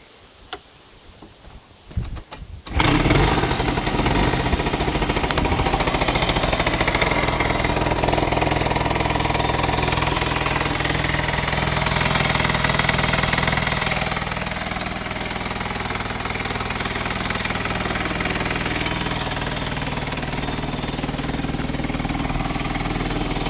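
Yamaha two-stroke scooter engine starting after a couple of short bursts, then running steadily, running a little lower and quieter from about halfway through.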